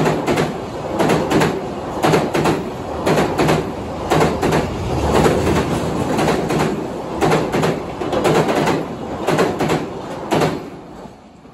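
JR Freight container train's Koki flatcars rolling past, the wheels clacking over rail joints in pairs about once a second over a steady rumble. The clatter ends and the sound dies away near the end as the last wagon passes.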